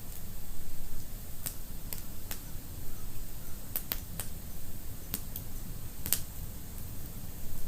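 Fire in a fireplace crackling: irregular sharp pops, the loudest about six seconds in, over a low steady rumble.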